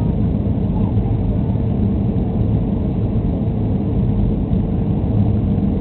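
Steady cabin noise inside a Boeing 737-300 in flight: a loud, even rumble of its CFM56 jet engines and airflow, with a faint steady hum running through it.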